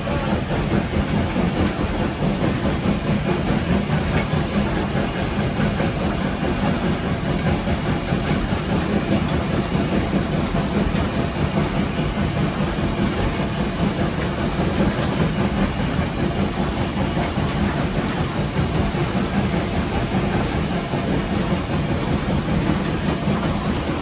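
Steady noise inside the cab of Nevada Northern No. 81, a Baldwin 2-8-0 steam locomotive: a continuous low mechanical rumble with hiss and no pauses or standout knocks.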